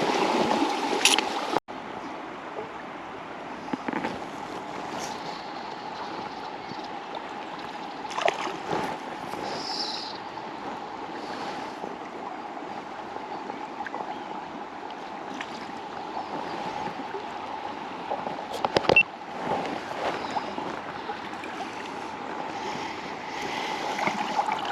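River water running steadily, an even rush, with a few short sharp knocks, the loudest about nineteen seconds in.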